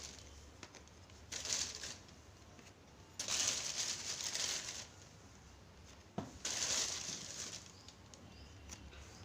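Rustling and crinkling as things are handled, in three bursts of about a second each, with a single sharp click about six seconds in.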